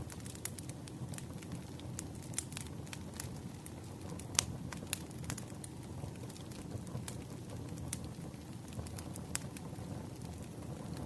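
Campfire crackling: a steady low rush of burning wood with irregular sharp pops and snaps, the loudest snap about four seconds in.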